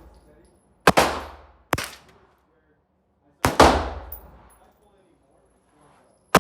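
Gunshots from firearms being shot: four sharp, irregularly spaced reports, one about a second in, a weaker one soon after, one past the middle and one at the very end, each followed by a ringing tail that dies away.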